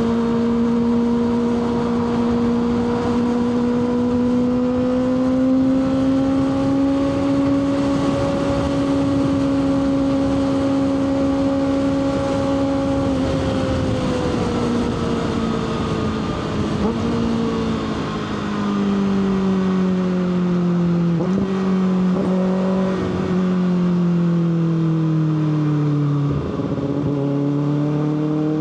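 Kawasaki ZX-6R's inline-four engine running at a steady high note while riding, over a rush of wind noise. After about 13 seconds the pitch falls gradually as the bike slows, with a few short dips in the note, and it rises again near the end as it accelerates.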